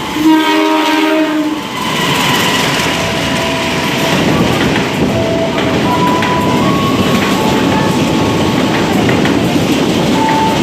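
A train horn sounds once, for about a second right at the start, then the train runs past with a steady rumble and wheel clatter, with thin whining tones that step from one pitch to another.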